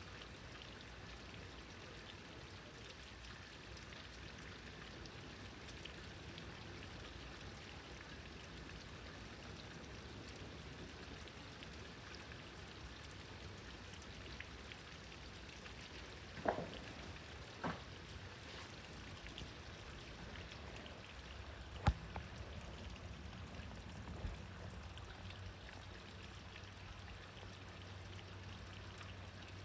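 Steady rain falling, with three short sharp taps around the middle.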